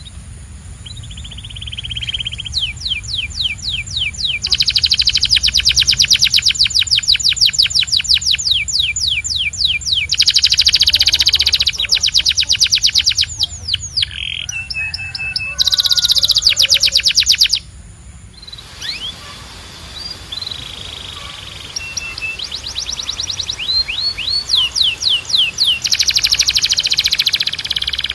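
Domestic canary singing a long song of fast trills: runs of rapidly repeated notes that switch between higher and lower pitches, with a short quieter gap a little past halfway.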